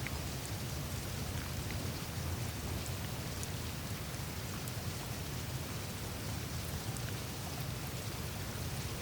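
Melting glacier ice on the Greenland ice sheet: meltwater trickling and dripping across and through the ice. It makes a steady rain-like hiss over a low rumble, with scattered faint ticks of ice.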